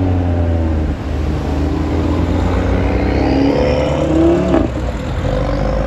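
Performance hatchbacks, a black Audi and then a green Ford Focus RS, accelerating hard away with the engine note rising. About four and a half seconds in there is a sharp crack, and the pitch drops after it.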